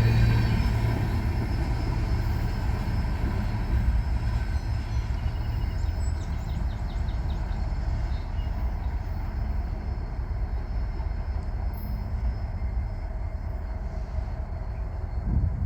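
Freight train with diesel locomotives rumbling on the track, loudest at the start and slowly fading. A short run of light clicks sounds about six seconds in.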